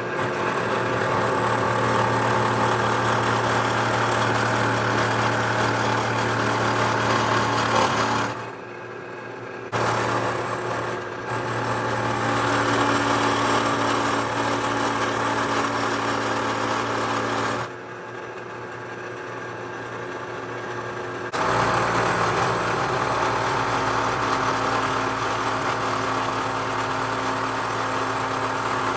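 Bridgeport-style milling machine running under power, its cutter cutting metal with a steady motor hum under a dense cutting noise. The sound drops back twice, for about a second and then for a few seconds, before the cut picks up again.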